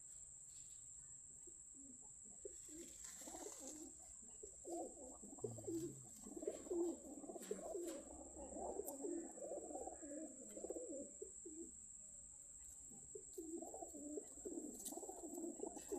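Pigeons cooing, a low warbling that comes in bouts, thickest from about four seconds in and again near the end.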